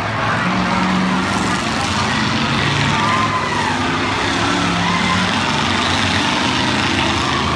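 Several demolition derby cars' engines running and revving up and down together in a steady, loud din.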